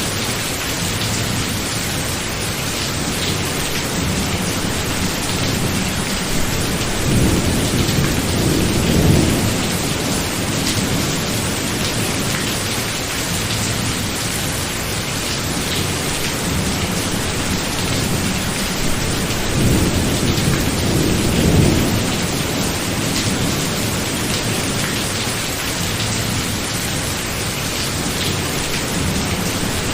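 Rain falling steadily in a thunderstorm, with low rumbles of thunder swelling twice: once about seven seconds in and again about twenty seconds in.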